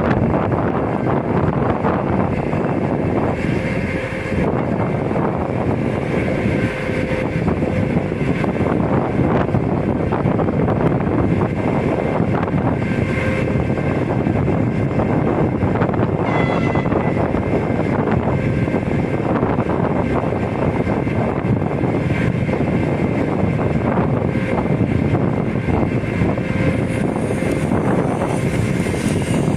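Steady loud rumbling noise: wind buffeting the microphone mixed with the running engine of an approaching TEP70 diesel passenger locomotive. A short falling squeal comes about halfway through.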